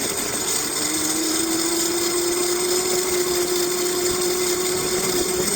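Electric bike motor whining steadily over a constant hiss, its pitch climbing slowly from about a second in.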